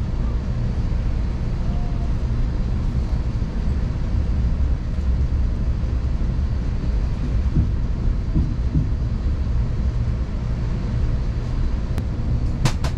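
Amtrak Acela train running at speed, heard inside the passenger car: a steady low rumble, with a few sharp clicks near the end.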